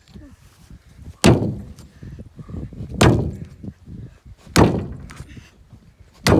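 Four heavy blows on wood, evenly spaced about a second and a half apart, each with a short ringing tail: a bad wooden deck board on a farm trailer being knocked loose.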